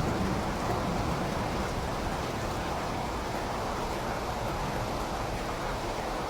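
Steady rain falling, an even hiss without separate drops standing out; the low rumble of thunder dies away in the first second or so.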